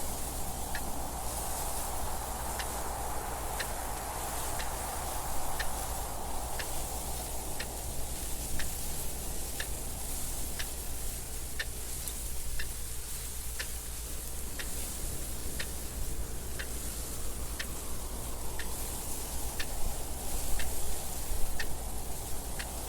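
Clock ticking steadily at about one tick a second, over a soft wind noise that swells and eases, fading for a while midway before building again.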